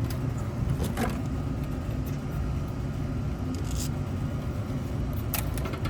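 Small clicks and scrapes of wire connectors being worked loose and handled at the unit's control board, a few times over, against a steady low rumble.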